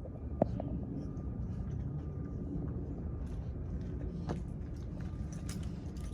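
Steady low rumble of a running engine, with a faint steady hum over it and a sharp click about half a second in.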